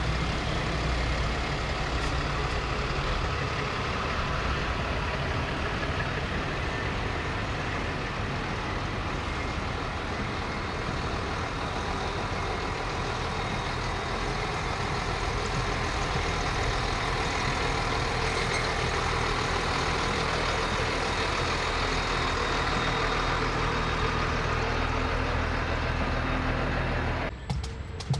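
Heavy fire trucks' diesel engines running as they roll slowly past, a steady dense noise that changes abruptly near the end.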